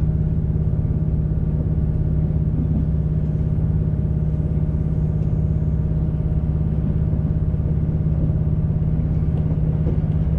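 Diesel multiple-unit train heard from inside the passenger carriage while under way: a steady engine and running drone with one constant low note, level throughout.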